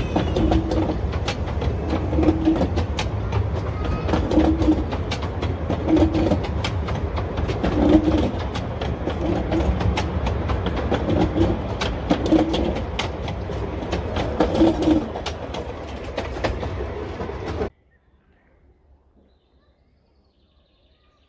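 Coaches of a 10¼-inch gauge miniature steam railway train rolling past, their wheels clattering over rail joints and pointwork with a steady rumble. The sound cuts off suddenly about 18 seconds in, leaving near silence.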